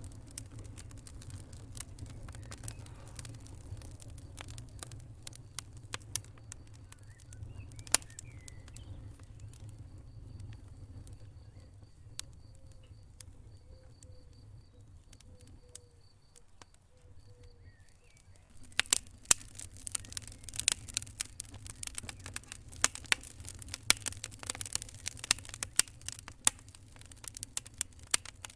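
Wood fire in a fireplace crackling: scattered sharp pops at first, turning into dense, louder crackling about two-thirds of the way through, over a low steady rumble.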